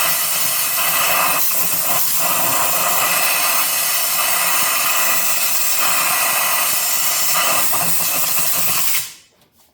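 Compressed-air blow gun hissing loudly and steadily, with a few brief dips, blowing metal chips out of a freshly tapped spark plug hole; it cuts off about nine seconds in.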